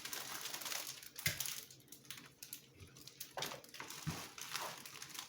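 Packaging crinkling and rustling as small parts are unpacked by hand, with a couple of light knocks.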